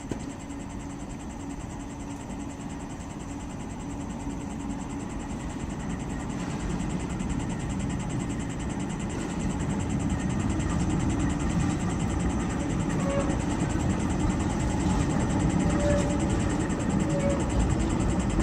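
Tram running along the street, a steady low rumble that grows louder over the first ten seconds or so and then holds.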